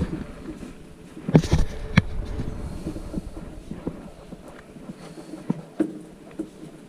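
Knocks and clicks from a plastic furnace flue pipe being handled and held in place, loudest in a cluster about a second and a half in. A low hum underneath fades out about five seconds in.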